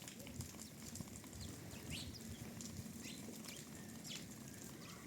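Faint, scattered short chirps from birds, each a quick downward sweep, over a low rustling.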